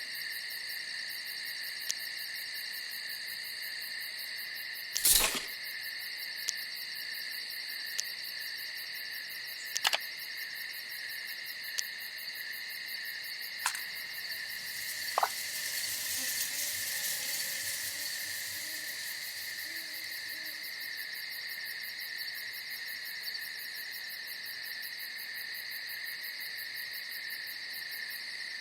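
Night insects, crickets, trilling without a break in two steady high pitches. A few sharp clicks cut through, the loudest about five seconds in.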